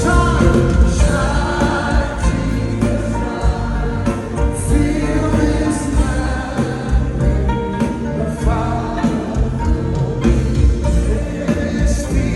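Gospel worship music: voices singing together over a band with a steady bass and cymbals.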